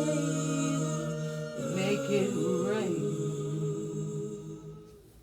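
Singing at the end of a song: a long held note, a short wordless vocal run about two seconds in, then the music fades out.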